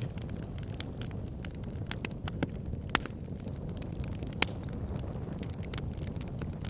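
Wood fire burning in a fireplace: logs crackling with frequent irregular sharp pops over a steady low rumble of the flames, with two louder pops about three and four and a half seconds in.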